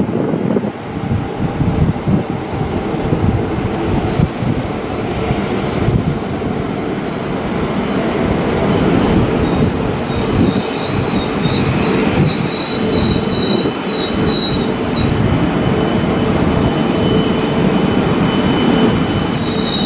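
Shinkansen train moving through the station: a loud, steady rush of wheels and running gear on the rails, with high-pitched squeals coming and going from about five seconds in to fifteen and again near the end.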